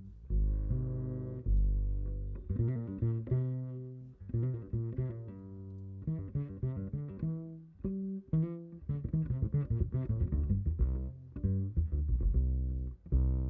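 A jazz bass solo: single plucked low notes in a walking, running line, with quick flurries of notes and short pauses between phrases.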